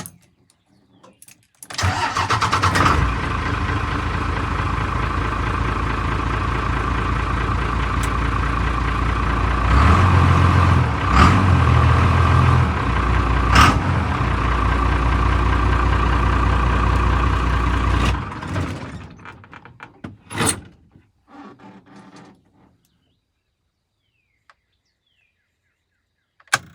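Six-cylinder truck engine cranking and catching about two seconds in, then running steadily at idle, a little louder for a few seconds in the middle, and switched off after about sixteen seconds. A single knock follows a couple of seconds after it stops.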